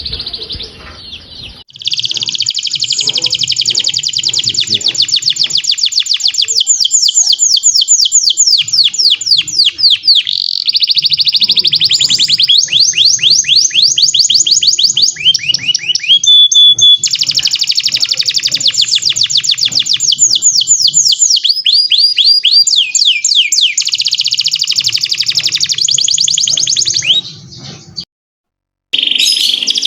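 Domestic canary singing a long, continuous song of rapid rolling trills and fast repeated notes, phrase after phrase with hardly a pause. The song breaks off for about a second near the end, then resumes.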